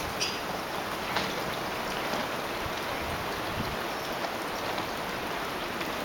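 Wind storm: a steady, even hiss with some low rumble of gusts on the microphone and a few faint ticks.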